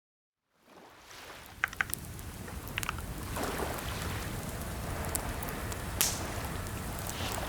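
Scattered keyboard key clicks over a steady background hiss. The sound cuts out to silence at the start and fades back in over the first second.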